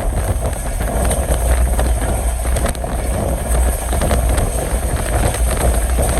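Passenger train running along the track: a steady, loud rumble of wheels on the rails with no break.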